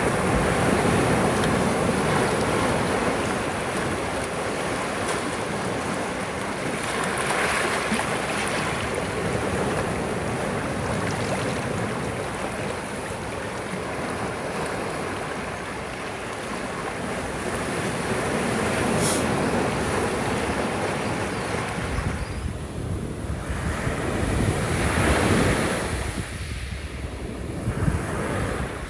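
Ocean waves washing onto a shore: a steady surf hiss that swells and eases every few seconds, with wind buffeting the microphone near the end.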